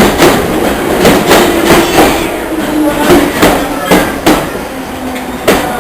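Train running along the track, its wheels clacking over rail joints about two to three times a second over a steady rumble, with a faint steady hum.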